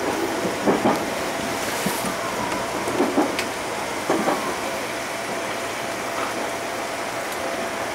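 Running noise of a JR Central 211 series 5000 electric multiple unit, heard inside the front car: a steady rolling hiss with a few short clacks as the wheels pass over points and rail joints on the approach to a station platform.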